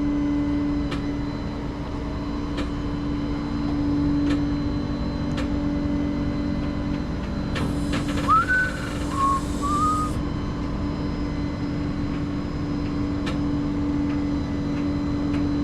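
Flatbed tow truck engine idling with a steady hum and a few faint clicks. About eight seconds in, a short whistle of a few notes.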